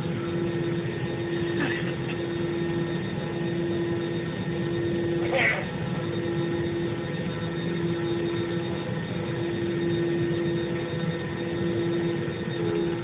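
Steady drone inside an airliner cabin on the ground before takeoff, with the jet engines and cabin air running and a constant whine over a low hum. Two brief short sounds cut in, about two seconds and five and a half seconds in.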